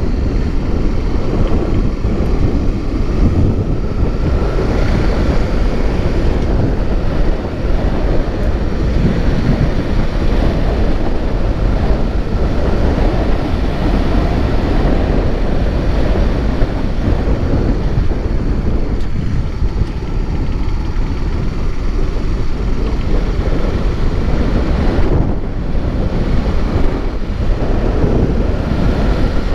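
Wind buffeting the microphone of a moving vehicle, with steady road and engine noise underneath.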